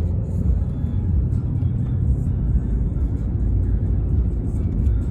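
Steady low rumble of a pickup truck driving, road and engine noise heard inside the moving vehicle.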